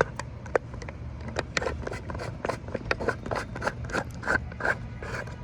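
Rapid, irregular clicking and scraping of a phone tripod being raised and adjusted by hand, several clicks a second, over a low steady background hum.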